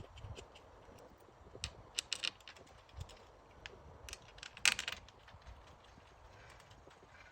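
Scattered light clicks and knocks of small tools and parts being handled during repair work, with a louder clatter just under five seconds in.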